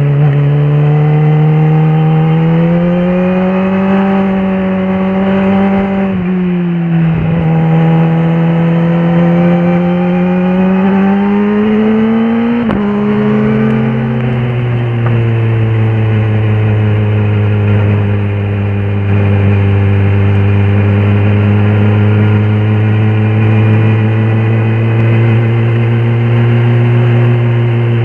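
Kawasaki ZX-10R SE's inline-four engine pulling under acceleration, its pitch climbing and then dropping sharply at each of two upshifts. After the second shift it settles into a steady, lower-revving cruise.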